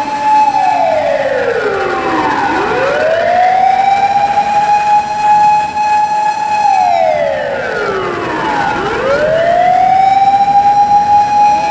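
Japanese fire engine siren wailing: a steady high tone that twice slides down over about two seconds, then swoops quickly back up and holds.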